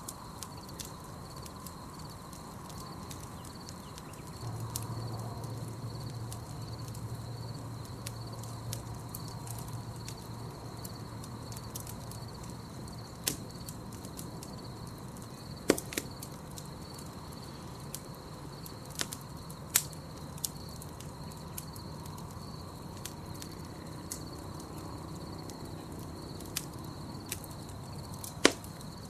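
Campfire crackling: scattered small snaps of burning wood with a few sharp, louder pops, the strongest about sixteen and twenty seconds in and near the end. A steady high-pitched chirring runs underneath, and a low rumble comes in about four seconds in.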